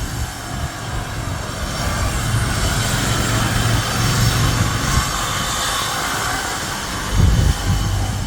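Wind rushing over the microphone and road rumble from a bicycle being ridden, with a louder low rumble about seven seconds in.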